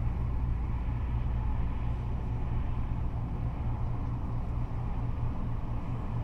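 Steady freeway traffic: cars and trucks passing on the interstate, a continuous wash of tyre and engine noise over a deep low rumble, with no single vehicle standing out.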